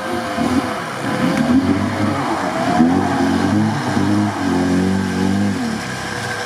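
Lada Niva's 1.7-litre fuel-injected four-cylinder engine revving under load as the car churns through deep mud and water, the engine note rising and falling several times, with water and mud splashing from the wheels.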